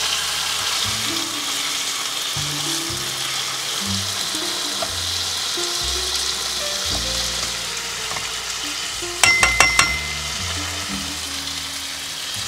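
Food sizzling and frying in a pan, a steady hiss. About nine seconds in comes a quick run of sharp metallic clinks, a utensil striking the pan, over soft background music.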